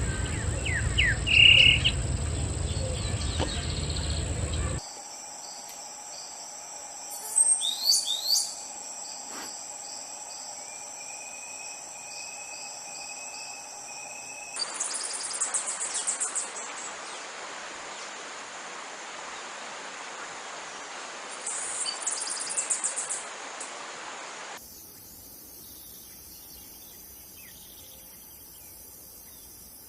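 Birds calling and insects chirping and buzzing outdoors, in several short recordings joined by abrupt cuts. There is a short bird chirp near the start, quick sweeping bird calls about a quarter of the way in, and bursts of high pulsing insect trills in the middle and again later, over a steady high buzz.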